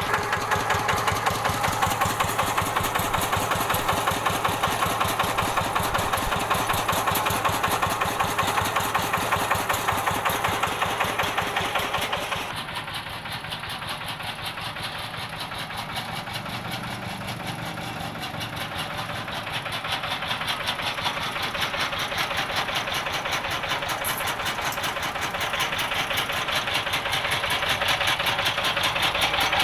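Rice-paddy tractor engine running on warm-up with a fast, even firing beat. About twelve seconds in it turns suddenly quieter and duller, then grows gradually louder again toward the end.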